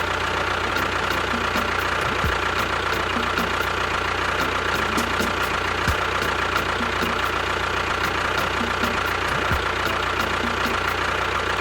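Small motor of a DIY mini tractor running steadily, with a constant whine and light, regular ticking.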